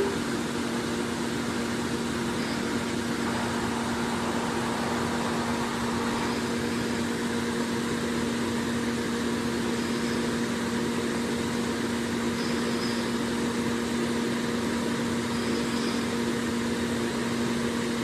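Steady mechanical hum with a constant hiss, unchanging in level and pitch throughout.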